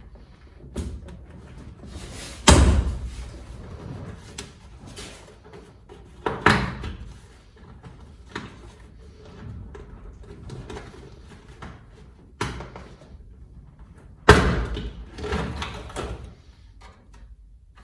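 Knocks, clunks and clicks of plastic interior trim on a Nissan R33 Skyline sedan being pried and pulled off its trim clips, with four sharp bangs spread through.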